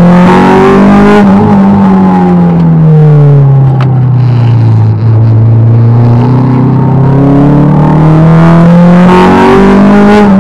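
Car engine heard from inside the cabin while driven hard: the revs fall away over several seconds, hold low, then climb again near the end.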